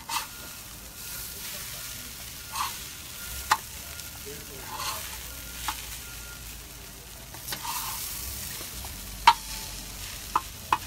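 Hash browns with onions and peppers sizzling steadily on a propane gas cooker, while a spatula scrapes and clacks against the cooking surface every second or two. The sharpest clack comes about nine seconds in.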